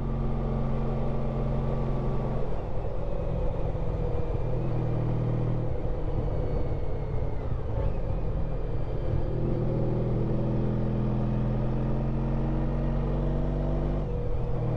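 Honda ST1300 Pan European's V4 engine running while the bike is ridden, over a low rumble. The engine note holds steady, drops about two and a half seconds in, wavers up and down with the throttle in the middle stretch, and dips briefly near the end.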